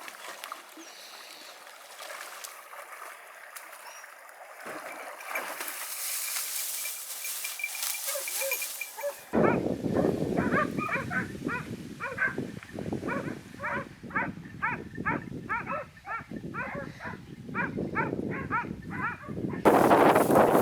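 Hunting dogs barking over and over, about two to three barks a second, after a quieter stretch. A loud rush of noise near the end.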